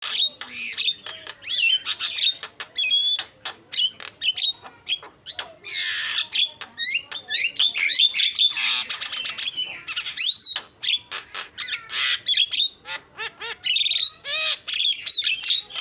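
Javan myna (jalak kebo) singing a busy, unbroken stream of rapid clicks, whistled notes gliding up and down, and harsh squawks, breaking in suddenly from quiet.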